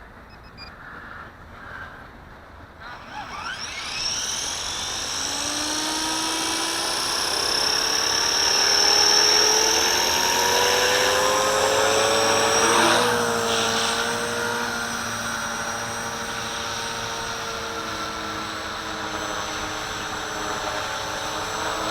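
Walkera V450D01 electric collective-pitch RC helicopter spooling up about three seconds in, the whine of its motor and rotors rising in pitch, then hovering with a steady whine. The pitch shifts around the middle of the hover as the helicopter holds against high wind.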